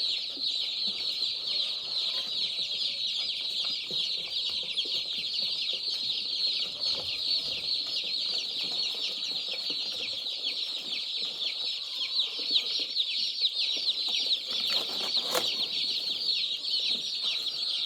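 A large batch of day-old turkey poults and meat-bird chicks peeping all at once, a dense unbroken chorus of high, short, falling cheeps. A brief knock comes near the end.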